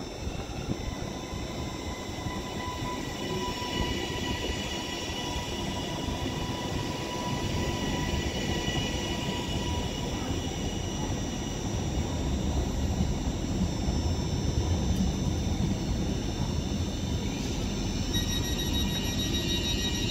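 Northern Class 331 electric multiple unit pulling slowly into a station platform. Steady high whining tones ride over a rumble of wheels on rail that grows louder as the carriages roll past, and a fresh set of whining tones starts near the end.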